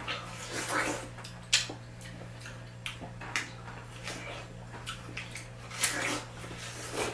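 Close-up eating sounds of juicy watermelon being bitten and chewed: irregular wet smacks, slurps and clicks, over a steady low hum.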